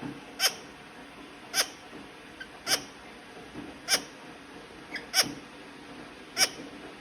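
Kakariki parrot calling, a short sharp chirp that drops in pitch, repeated evenly about every second and a quarter, six times.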